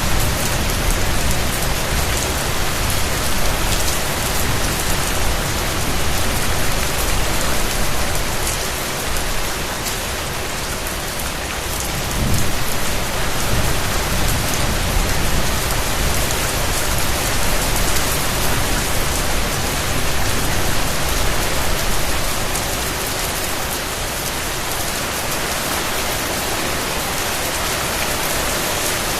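Steady rain falling densely on surfaces, a continuous hiss of drops with a low rumble under it that eases off a little about three-quarters of the way through.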